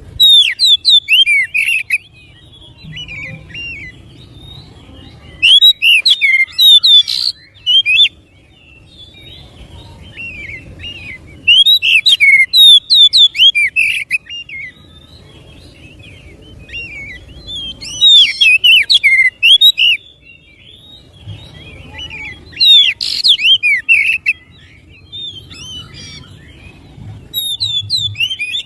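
Oriental magpie-robin (kacer) singing loud bursts of rapid, varied whistled phrases, one burst about every five to six seconds, with quieter pauses between them.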